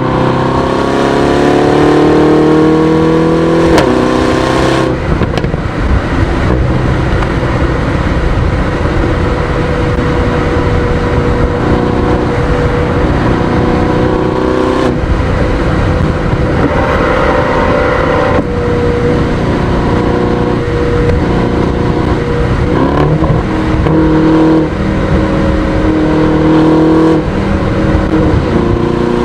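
2026 Aston Martin DBX S's 4.0-litre twin-turbo V8 under acceleration, rising in pitch for about four seconds until a gear change. After that it runs at steadier revs with small rises and falls.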